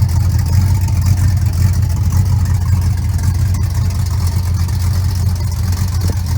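Pickup truck's engine and exhaust running steadily while driving, a constant low drone.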